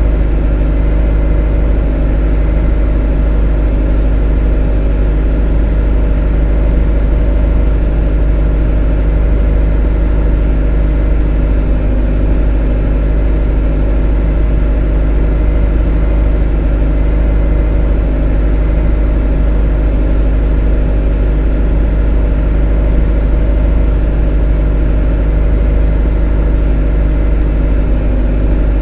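A motor running at a constant speed: a deep, even hum with a stack of steady overtones and no change in pitch or level.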